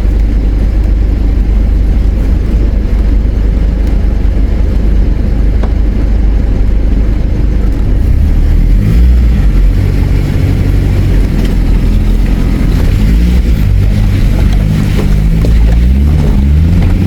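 Four-wheel drive's engine working under load in low-range gear, pulling up a rough, rutted exit out of a river crossing. A steady low rumble, with the engine note rising and falling with the revs from about halfway through.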